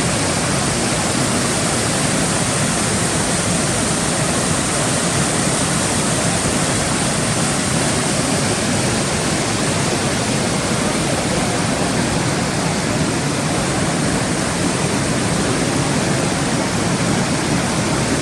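A creek swollen by heavy rain rushing through boulder rapids: a steady, unbroken rush of whitewater.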